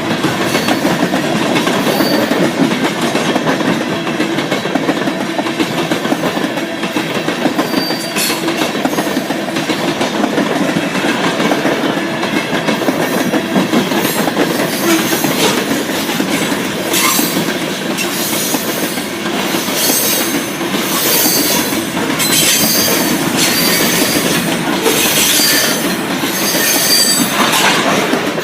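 Freight train cars rolling past with a steady rumble of steel wheels on rail and clicking over the rail joints. Through the second half, high-pitched wheel squeal comes and goes repeatedly.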